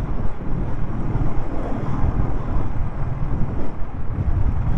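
Wind buffeting the rider's microphone while riding a Royal Enfield Thunderbird 500 motorcycle, with the engine running underneath as a steady rumble.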